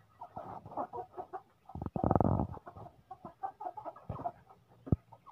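Captive white-breasted waterhen (ruak-ruak) giving short clucking calls, with one louder, rapid rattling call about two seconds in.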